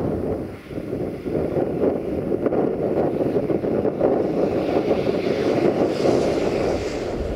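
Wind rushing over the microphone with the rumble of an approaching train, and a higher hiss building up over the last couple of seconds as it nears.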